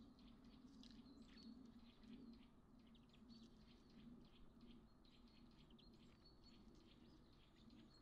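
Faint bird chirps and quick ticks scattered throughout, over a low steady hum.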